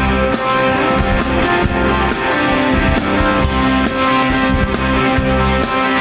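Live rock band playing an instrumental passage between sung lines: guitars over bass and a steady drum beat.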